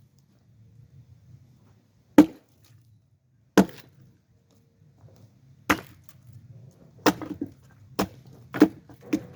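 Seven sharp strikes of an axe splitting firewood by hand, the later blows coming faster, about one a second. The piece being split is a hard chunk of pine root.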